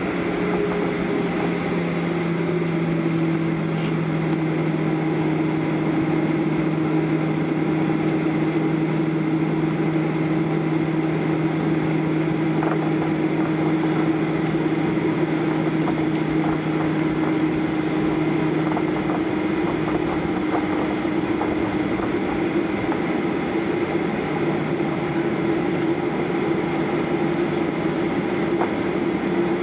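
Steady engine drone and rushing air noise inside the cabin of a Boeing 737-800 airliner, with two low hums; the lower one drops away about two-thirds of the way through.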